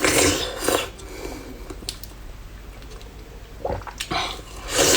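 Close-miked mouth sounds of eating jelly, wet slurping and squishing, in two loud bursts: one at the start lasting under a second and another building near the end.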